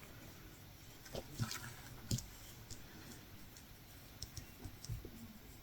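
Light, scattered clicks and taps from a latch hook tool working yarn through rug canvas, a handful over several seconds, the firmest about two seconds in.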